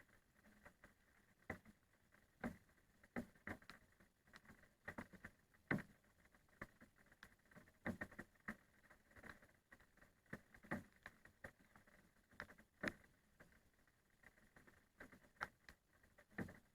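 Raindrops falling in scattered, irregular single taps, a few each second, with some landing louder than others.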